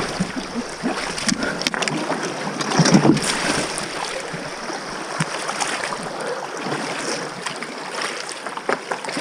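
Water splashing and sloshing around a small boat as it is pushed through a shallow river, with scattered knocks against the hull and a louder splashing patch about three seconds in.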